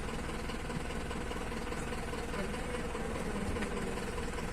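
A vehicle engine idling steadily, an even low drone.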